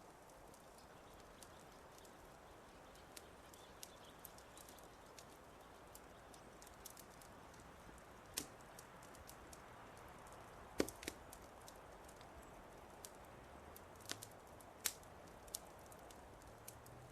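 Wood fire crackling: scattered sharp pops and snaps over a faint steady hiss, the loudest pops about eleven and fifteen seconds in.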